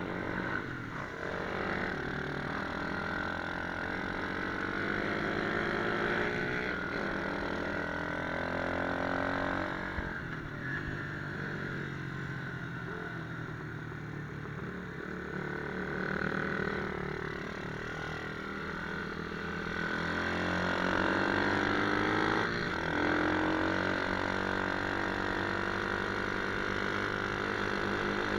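Pit bike engine revving up and down again and again, its pitch rising and falling as it runs.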